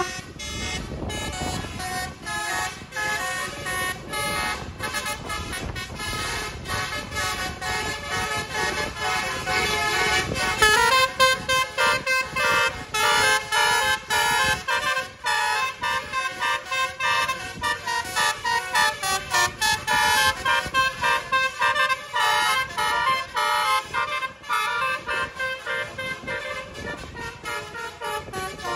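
Bus 'basuri' telolet musical horn playing a melody of many short, stepping notes over engine and road noise. The melody is clearest and busiest from about ten seconds in.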